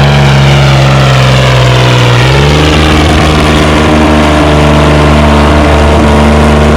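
Antique pulling tractor's engine running loud and hard. Its pitch sags slowly, rises sharply about two seconds in, then holds steady.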